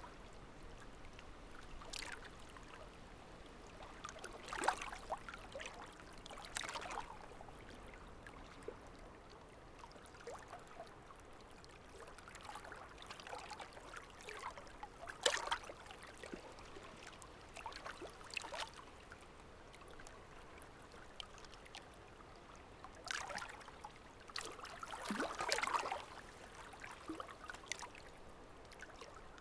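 Water running and trickling at a low level, with irregular louder splashy moments every few seconds.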